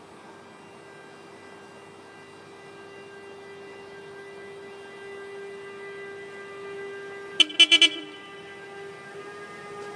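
A departing freight train's locomotive gives off a steady whine that grows slowly louder and creeps up in pitch as it pulls away. About seven seconds in come four quick, loud tone blasts.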